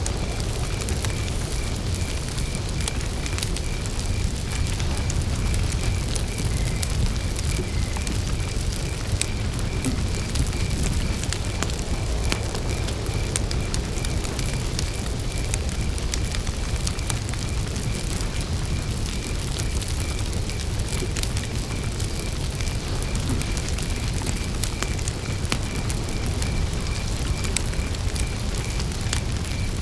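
Wood campfire burning with a low, steady rumble and scattered sharp crackles and pops. A cricket chirps throughout in a steady, even rhythm.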